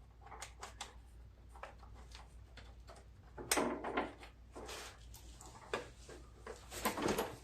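Scattered light clicks, knocks and scrapes as a riding mower's engine shroud and its bolts are handled and worked into line by hand, with short scraping rubs about three and a half seconds in and again near the end.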